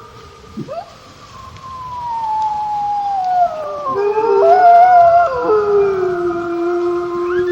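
A chorus of wolves howling: several long howls at different pitches overlap, the lowest sliding slowly down in pitch and then holding steady to the end.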